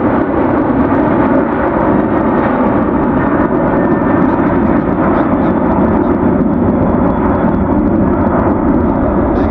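Jet airliner engines, a loud, steady noise.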